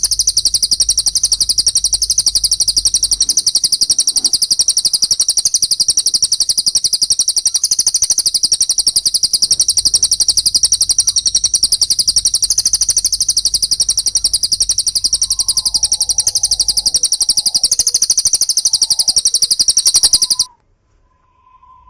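Small songbirds chattering: a fast, unbroken stream of high-pitched chirps from a birdsong training recording of a fighting-call tree sparrow and a cililin. It stops suddenly shortly before the end, leaving a faint short whistle.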